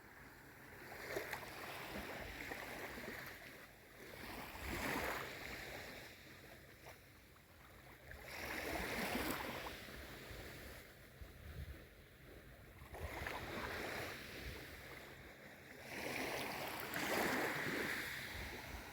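Small waves on a calm sea washing in and draining back, the wash swelling and fading about every four seconds.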